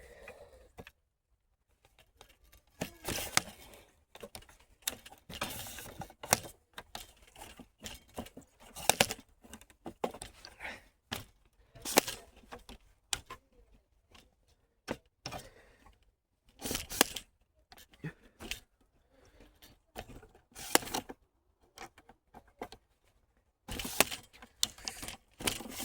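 Gear being packed up by hand close to the microphone: irregular rustling, scraping and clicking as things are handled and stowed.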